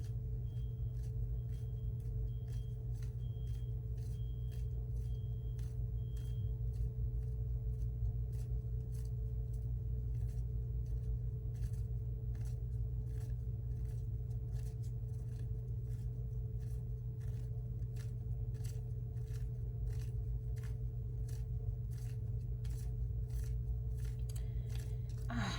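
A long series of light, irregular clicks, about two a second, over a steady low electrical hum. A faint high-pitched beeping runs under the first six seconds.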